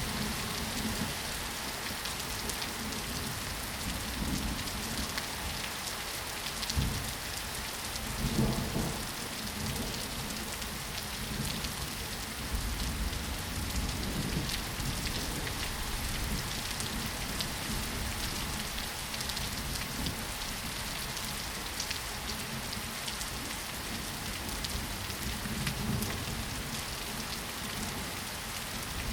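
Steady rain falling and pattering on surfaces, an even hiss of many drops. A couple of brief low rumbles swell up about a quarter of the way in.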